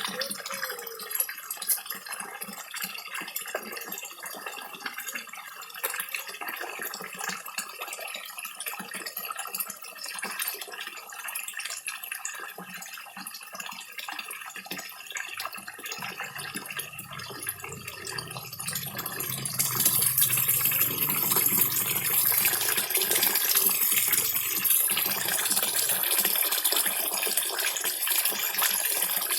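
Small waterfall trickling into a koi pond, with many small clicking splashes of koi feeding together at the surface. The water becomes louder about two-thirds of the way through.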